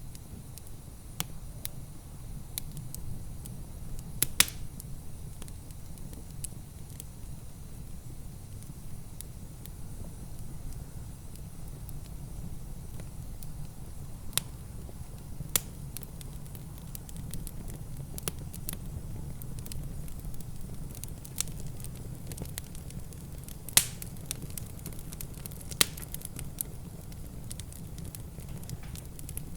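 Wood fire in a fireplace crackling, with irregular sharp pops, a few much louder than the rest, over a steady low rumble.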